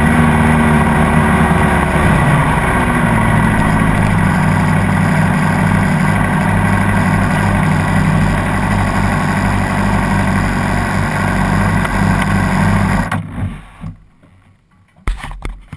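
Honda CBR600RR's inline-four engine running steadily at low revs, then cut off abruptly about thirteen seconds in. A few scattered knocks follow in the quiet.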